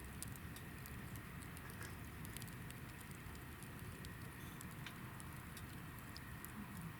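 Hinoki (Japanese cypress) firewood burning in a campfire, giving frequent small, irregular crackles over a faint, low rumble.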